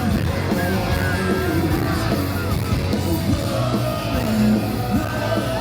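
Live rock music: a band playing with a singer's voice over it.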